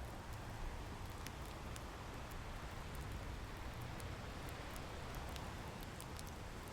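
Fireplace crackling with scattered sharp pops over a steady wash of ocean surf.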